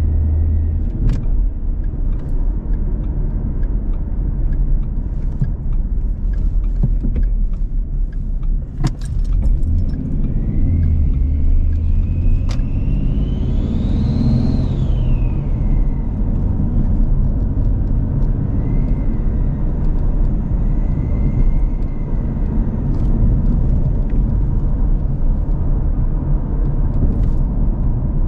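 S197 Ford Mustang's V6 engine running with a steady low drone through a turbo exhaust, its pitch rising and then falling once about halfway through. A few sharp clicks come through on top.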